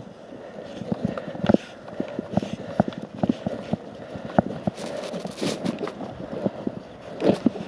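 Irregular knocks and clicks, a few each second and coming thicker near the end, with no chainsaw running.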